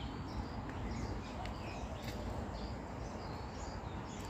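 Birds chirping now and then in the trees over a steady low outdoor background noise.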